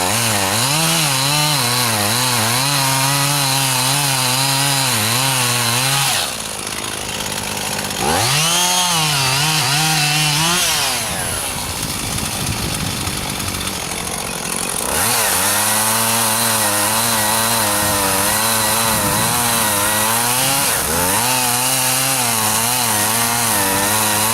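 Chainsaw cutting into a juniper trunk under load. The engine eases off about six seconds in, revs up briefly, then drops back for several seconds before going back into the cut.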